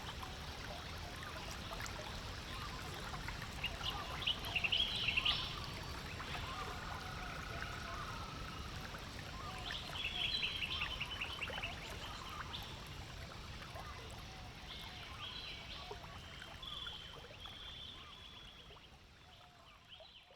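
Water trickling and lapping, with birds calling in short chattering trills several times (around four, ten and sixteen seconds in) and one brief whistled note; the sound fades out at the end.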